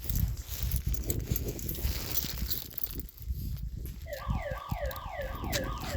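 Low rumbling background noise, then about four seconds in an electronic siren starts up, a rapid yelp of falling pitch sweeps repeating about three times a second.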